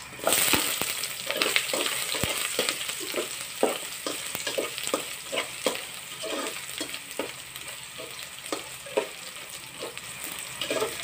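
Ginger strips hitting hot oil and garlic in a metal pot, sizzling sharply as they land. A metal spoon then stirs, scraping against the pot about once or twice a second over the steady sizzle of the sauté.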